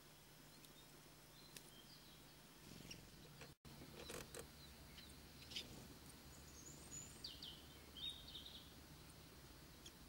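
Quiet background with a few short, high bird chirps about seven to eight and a half seconds in, and some soft clicks.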